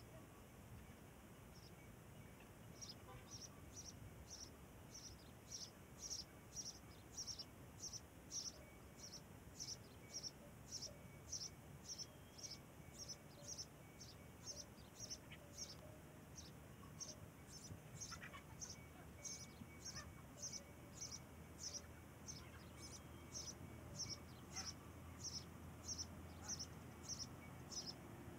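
A small bird calling over and over, a short high chirp repeated about twice a second, starting about three seconds in and going on steadily.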